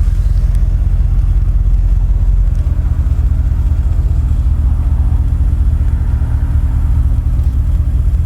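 Car engine and road noise heard from inside the cabin while driving: a steady low drone whose tone shifts about two and a half seconds in.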